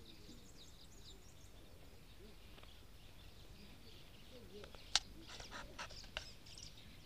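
Birds chirping on a lakeshore: many short, high calls throughout. About five seconds in comes a single sharp click, the loudest sound, followed by a quick run of louder calls.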